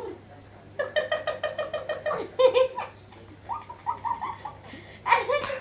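A high-pitched voice making quick, repeated cooing, squealing sounds in short runs: a longer run about a second in, softer gliding ones midway, and another just before the end.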